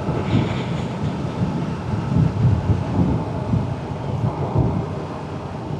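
Wind buffeting the microphone over the steady drone of a motorcycle cruising along the road.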